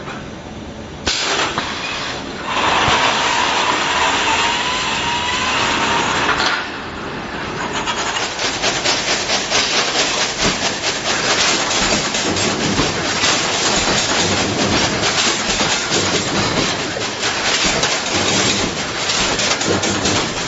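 Automatic wire mesh welding machine running. A steady hiss with a faint tone for a few seconds, then a continuous rapid clatter of clicks and knocks as it works.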